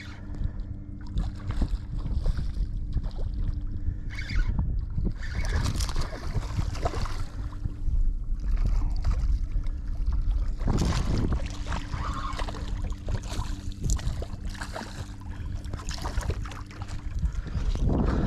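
Wind buffeting the microphone and water splashing and slapping around a small skiff, with louder bursts of splashing a few times as a hooked snook is fought at the boat. A low steady hum runs underneath.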